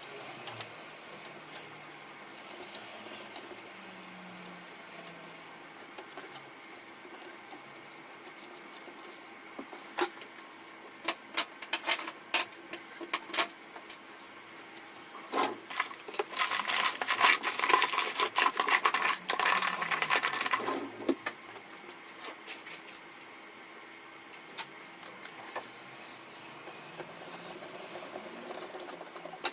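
Canon MF4018 laser printer running its mechanism over a steady low hum: a string of clicks, then about five seconds of motor and gear whirring with a steady tone, about two-thirds of the way through.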